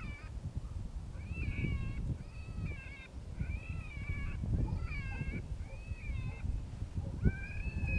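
Rabbit distress call played through a FoxPro Shockwave electronic predator caller: a string of short, wavering crying squalls, about one a second. Heavy wind rumble on the microphone runs underneath.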